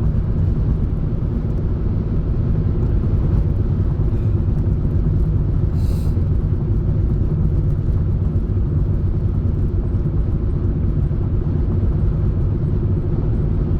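Steady road and engine rumble of a car being driven, heard from inside the cabin, with a single short click about six seconds in.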